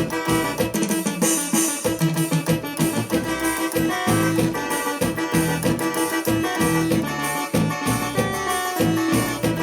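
Instrumental break of a live forró band: a keyboard melody over a steady dance beat.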